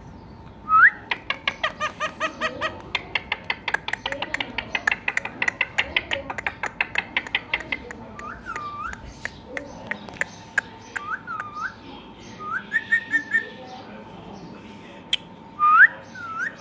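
Indian ringneck parrot calling: a fast run of short repeated chirps lasting several seconds, then a few short swooping whistles.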